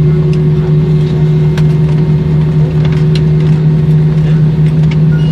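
Steady drone and hum of a jet airliner heard from inside the passenger cabin, with a few faint clicks.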